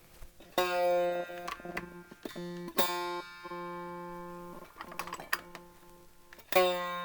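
Fender Starcaster electric guitar played through an amplifier: the same low note plucked about four times, each ringing a second or two, some cutting off suddenly. Faint crackles between the notes, which the repairer puts down to the rubbish, loose output jack socket.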